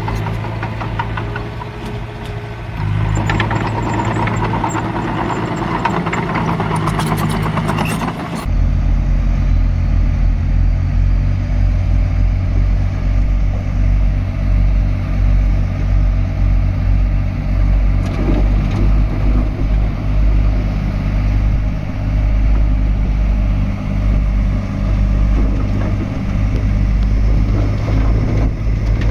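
Heavy diesel engines of earthmoving machinery running, with metallic clanking and squeaks over the engine for the first eight seconds or so. Then a sudden change to a deeper, louder engine drone that swells and dips.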